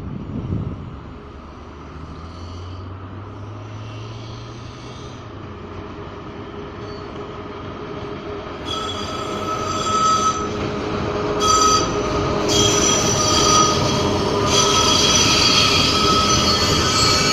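Freight train hauled by a VL11 electric locomotive rolling past, growing louder. About halfway in, the wagons' wheels start squealing in steady high tones.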